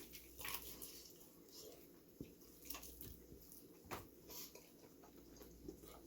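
Faint chewing of spicy fried chicken wings: scattered soft mouth clicks and smacks, a little louder about four seconds in.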